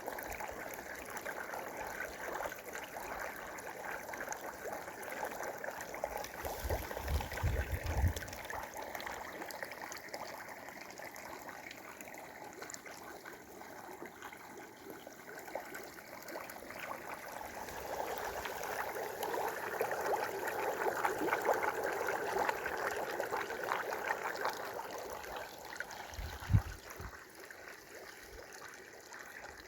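Water of a natural sulphur spring running and trickling steadily, growing louder about two-thirds of the way through. A few low bumps stand out, the sharpest near the end.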